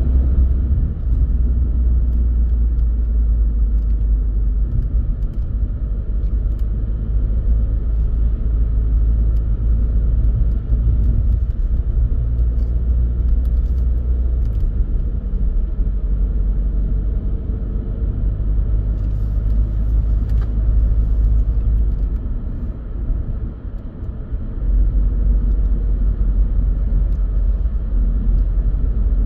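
Car driving: a steady low rumble from the engine and tyres, easing briefly about three-quarters of the way through.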